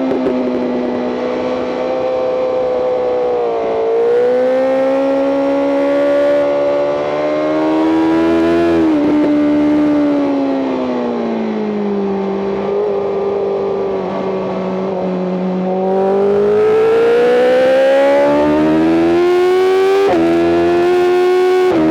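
BMW M 1000 RR's inline-four engine at full race pace, heard from on board: the pitch climbs under throttle and drops sharply at gear changes about four seconds in, nine seconds in and twice near the end. In between, it falls away while slowing for a corner and then pulls back up.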